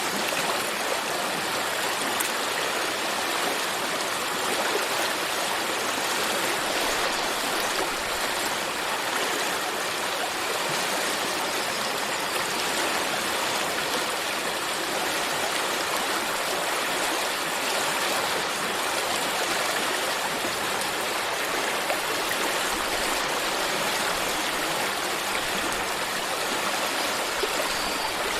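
A stream of water running steadily, a constant rushing wash of sound.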